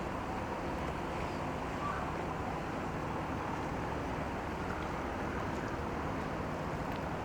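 Steady low hum of a harbour boat's engine running, over an even wash of noise with no sudden sounds.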